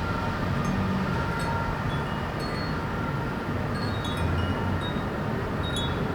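Small wind chime stirred by the breeze, tinkling irregularly with a scatter of short, high, ringing strikes. Underneath runs a steady low hum of city traffic.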